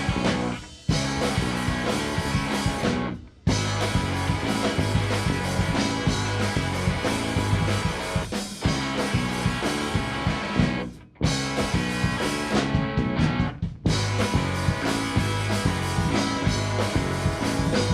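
Live rock band playing an instrumental passage with electric guitar, bass and drum kit, no singing. The whole band cuts out briefly four times.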